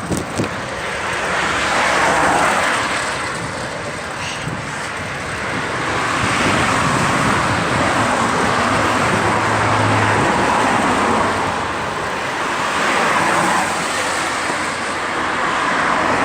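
Rushing noise of a bicycle ride along a lane, swelling and fading several times, with a brief low hum about nine to ten seconds in.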